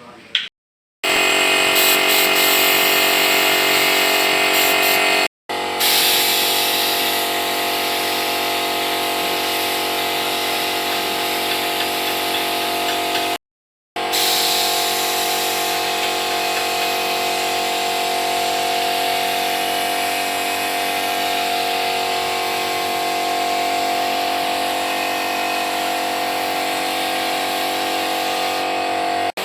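An electric power tool running steadily. The run is split into sections by brief silent cuts.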